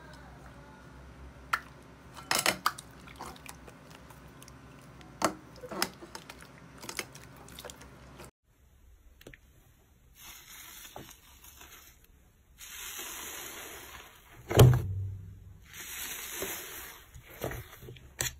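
Slime being handled by hand in close-up, first with scattered sharp clicks and pops. After a cut come several spells of hissy, rustling noise, with one loud thump about halfway through.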